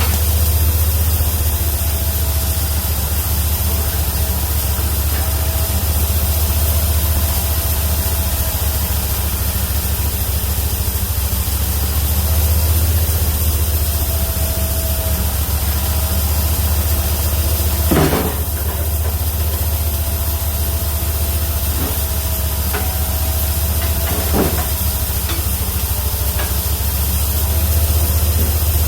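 Homemade bandsaw mill with a 31 hp engine running steadily as its carbide-tipped band blade cuts through a Chinese toon (Cedrela sinensis) log, a steady hum with a wavering whine and hiss over it. A sharp knock sounds about eighteen seconds in, and a smaller one around twenty-four seconds.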